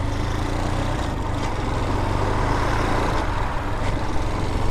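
Vitacci Raven 250 dirt bike's air-cooled 250cc engine running steadily at low speed, its pitch shifting slightly about a second in, with wind noise over the microphone.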